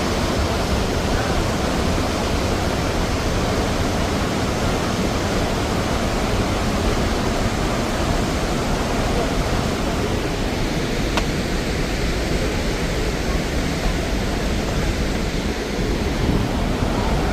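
The Rhine Falls, a large waterfall, rushing steadily: a dense, even noise of falling water that holds without a break.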